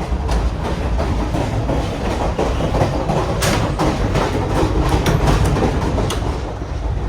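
Grand Canyon Railway passenger train running on the rails: a steady low rumble with irregular wheel clacks over the rail joints, one louder clack about three and a half seconds in.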